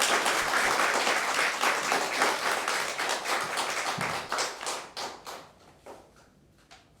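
Audience applauding. The clapping is dense at first, thins into scattered single claps after about four seconds, and dies away near the end.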